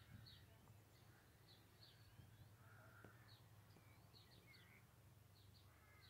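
Near silence with faint birdsong: many short chirps scattered throughout, over a low steady hum.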